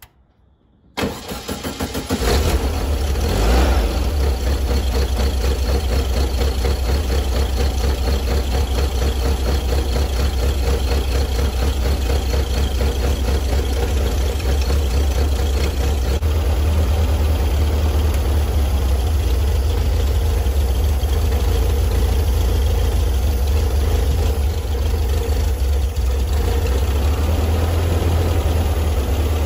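A cold 1600cc twin-port air-cooled VW flat-four is cranked on the starter about a second in and catches within about a second. It then runs at a steady idle while the ignition timing is set by turning the newly fitted electronic distributor.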